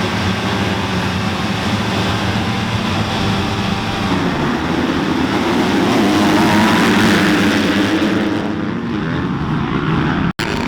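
Several dirt bike engines running together at racing speed, a dense, steady engine drone that swells around the middle. The sound cuts out for an instant near the end.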